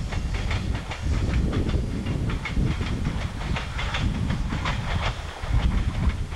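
Train rolling on rails: a steady low rumble with frequent sharp wheel clicks over the rail joints.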